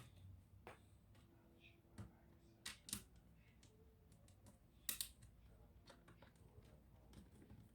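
A few faint, separate clicks and taps, with the loudest about five seconds in, from hands handling small plastic and metal laptop parts or tools.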